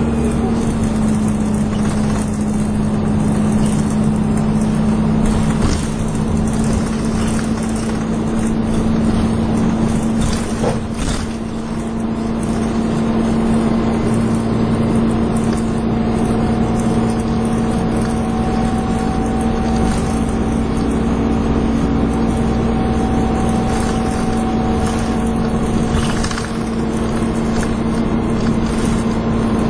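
Dennis Dart SLF single-deck bus heard from on board while under way, its engine and drivetrain running with a steady whine of the kind enthusiasts call a 'hoover'. A fainter, higher whine comes in about halfway through and fades a few seconds before the end.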